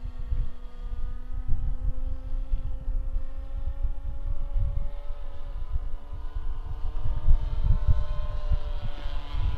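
Engine and propeller of a 1/7-scale Top Flite P-51D RC model droning steadily in flight, the pitch rising gently through the middle and easing back down as the plane passes. Wind buffets the microphone with gusty low rumble throughout.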